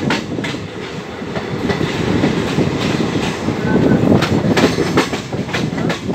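Magadh Express passenger train running along a station platform, heard from on board: a steady rumble of wheels on the track, with irregular clicks and knocks over the rail joints.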